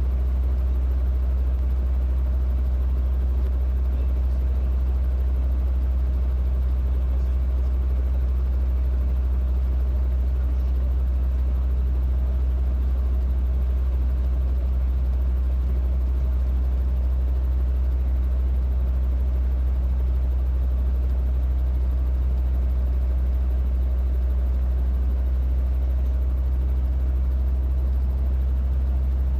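Robinson R22 helicopter's piston engine and rotor giving a steady, unbroken low drone.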